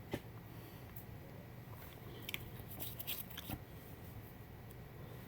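Faint, scattered clicks and light rustling of small plastic model-kit parts being handled, over a low steady room hum; a small run of clicks falls about two to three and a half seconds in.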